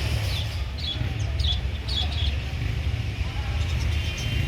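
Small birds chirping in short, falling chirps, several in quick succession, over a steady low rumble. Near the end comes a thin, steady high trill.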